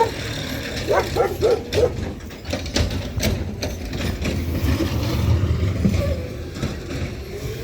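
A truck engine runs steadily, with a dog barking several times in quick succession about a second in.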